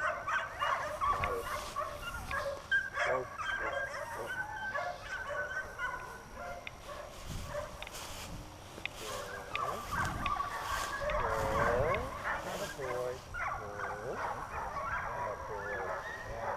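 A dog whining and yipping in a long run of short, high calls that rise and fall in pitch, coming thick and fast in the second half.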